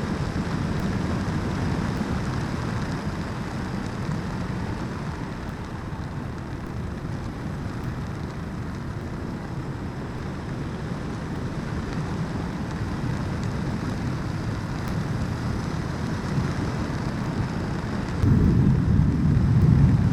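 Wind and road noise from a motorcycle riding along a road: a steady rush, louder about eighteen seconds in.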